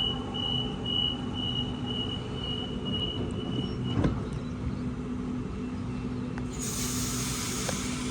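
Electric train at the station: a steady low electrical hum with a high pulsing tone over it, a single knock about four seconds in, then a burst of air hissing from near the end.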